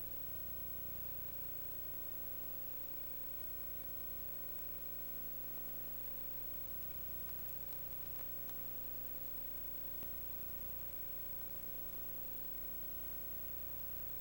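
Steady hum and hiss with a constant faint high tone and no other events.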